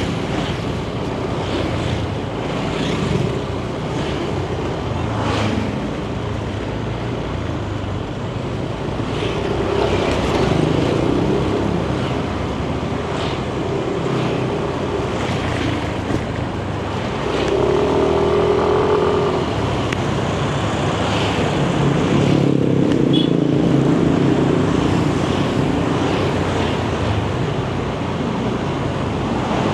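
Yamaha Nmax 155 scooter riding in traffic: the single-cylinder engine and its CVT drone steadily under wind noise on the microphone. Other traffic passes, with a brief pitched tone just past the middle and a lower engine hum a little later.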